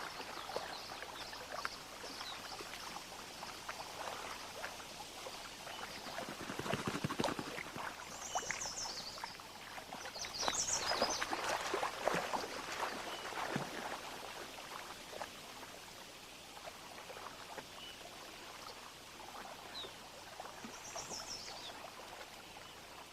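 Water splashing and sloshing as a wood bison and wolves struggle in the shallows of a lake, louder in two swells through the middle. A few short, high chirps come through over it.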